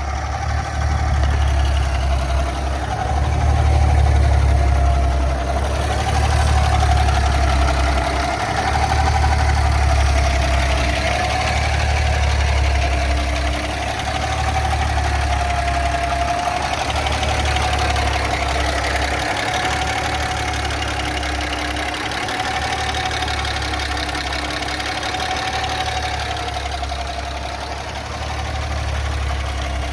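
The natural-gas engine of a 2014 Kenworth T800 CNG semi truck idling steadily: a low drone with a thin whine above it that wavers slightly in pitch.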